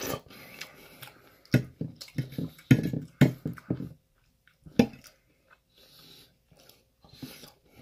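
Close-up eating sounds of chewing a mouthful of chicken stir fry, with a few sharp clicks of a metal fork against the plate, loudest in the middle.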